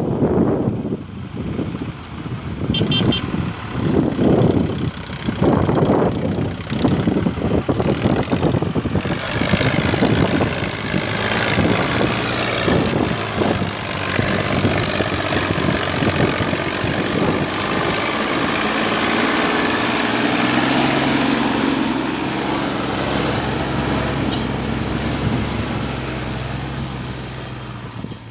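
Tractor diesel engine running, surging unevenly for the first several seconds, then settling into steady running that dies away near the end.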